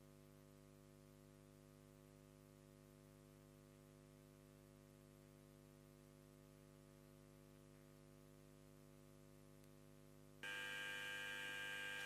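Low steady electrical hum in a quiet room, then about ten seconds in an electric buzzer comes on abruptly with a steady high, multi-pitched tone.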